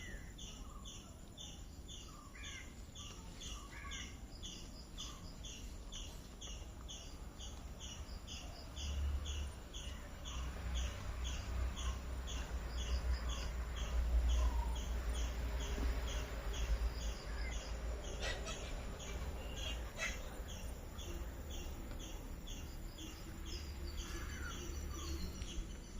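Outdoor nature ambience: a high chirp repeating steadily about twice a second, with scattered bird calls, including crow caws, over it. A low rumble swells from about nine seconds in and eases near the end.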